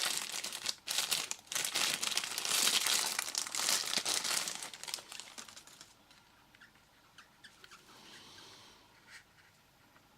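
Packaging crinkling and rustling as the hair trimmer is unwrapped, for about the first five or six seconds, then quieter handling with a few small clicks.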